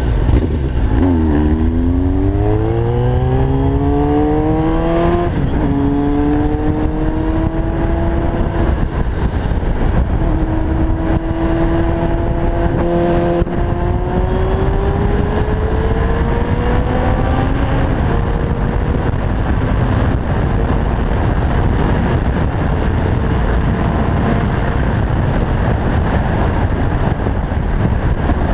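1990 Yamaha FZR 600 inline-four with a Yoshimura exhaust accelerating hard through the gears. The revs climb, drop at a shift about five seconds in, climb again with another shift about halfway, then level off at speed under a constant rush of wind noise.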